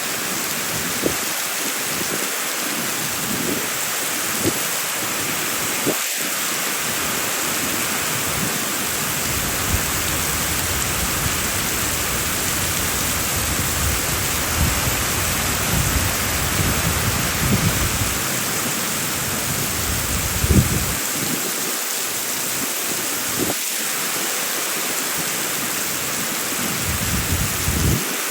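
Heavy rain falling in a steady, dense hiss, with a low rumble in the middle stretch and a few sharp drip-like taps.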